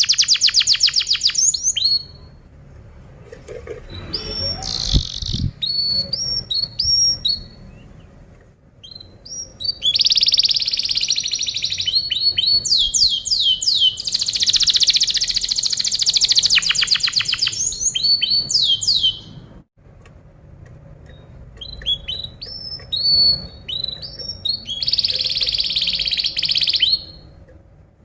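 Domestic canary singing: long, rapid rolling trills broken by shorter chirped and whistled phrases, in several bursts of song with quieter gaps between them.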